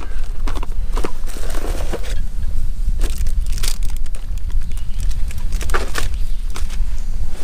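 Scattered clicks, rattles and rustling of objects being handled, over a steady loud low rumble.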